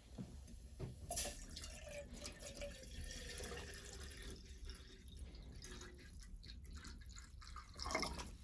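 Water trickling and splashing into a container, with a faint pitched ring in the middle and a louder brief splash or knock near the end.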